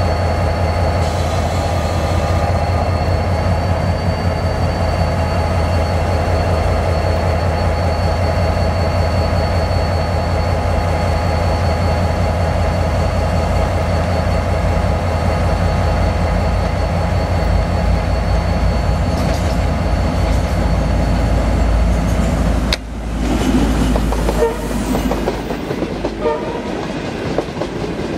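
Diesel-hauled train approaching with its engine running steadily. About three-quarters through, the sound drops suddenly, and then coaches roll past close by, their wheels clacking over the rail joints.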